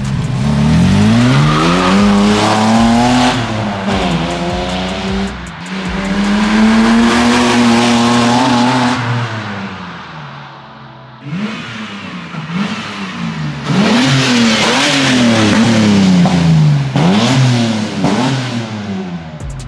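Ford Falcon XR Tickford's engine under hard acceleration, heard inside the cabin: its pitch climbs steeply twice with a gear change between, then drops away about ten seconds in. Then, heard from the roadside, the engine revs rise and fall several times in quick succession as the car comes along the street.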